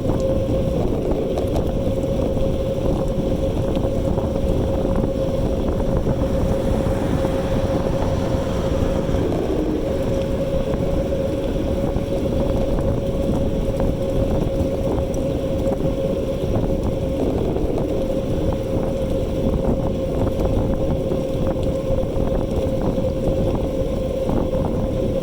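E-bike under way: a steady low rumble of wind on the microphone and road noise, with a steady motor whine that drops out briefly about nine seconds in.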